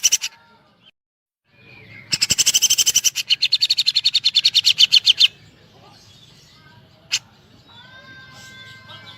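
Grey-cheeked bulbul (cucak jenggot) giving a fast, evenly spaced rattle of high notes, about ten a second for some three seconds. This is the woodpecker-like 'tembakan' burst it has learned. Faint thin whistles follow near the end.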